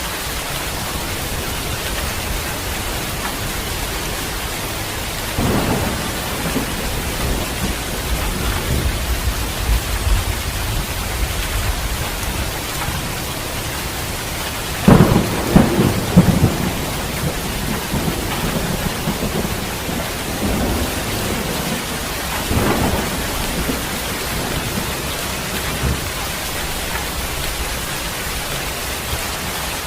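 Heavy rain hissing steadily with thunder. A rumble comes about five seconds in, a louder crackling thunderclap comes about halfway through, and a shorter rumble follows near the three-quarter mark.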